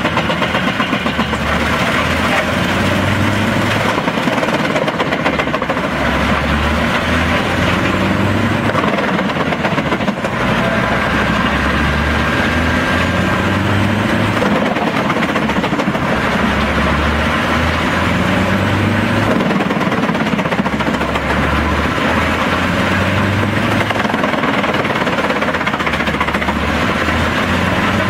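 Tracked drum chipper driven by a 600 hp Scania DC16 V8 diesel, running under load while chipping hard chestnut wood. It makes a loud continuous noise with a low throb that swells and eases every few seconds as the engine takes and sheds the load.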